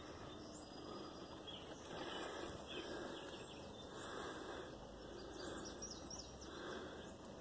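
Faint outdoor ambience with small birds chirping now and then over a steady low background.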